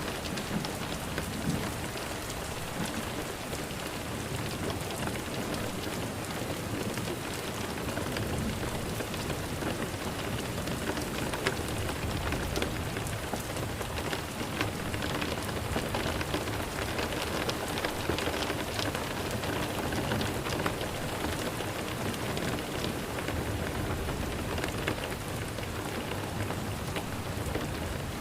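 Steady rain falling, an even hiss with many individual drops heard as small ticks.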